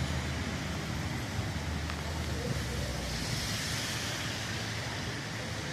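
Steady rain falling, a continuous hiss, with the low rumble of road traffic underneath.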